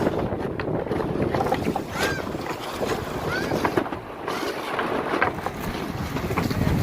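Wind buffeting the microphone and water rushing and splashing against the hull of a small sailboat under way.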